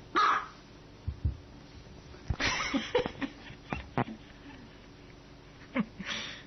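Small dog barking: a few sharp, high barks with pauses between them, plus a couple of low thumps about a second in.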